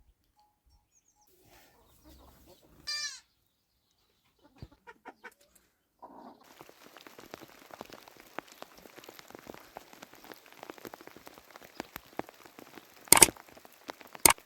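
Rain pattering steadily, setting in about six seconds in. About three seconds in there is one short, high-pitched animal call, and there are two sharp knocks near the end.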